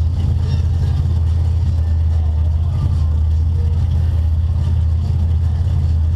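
Front-wheel-drive stock race car's engine idling with a steady low hum, heard from inside the stripped-out cabin while the car sits stopped.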